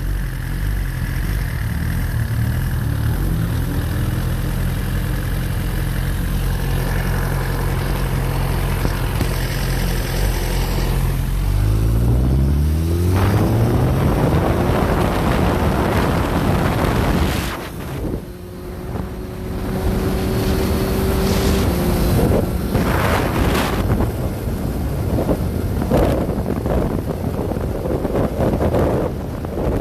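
Motorcycle engine running at a steady pitch, then revving up and accelerating about twelve seconds in. Wind rushes over the microphone as speed builds.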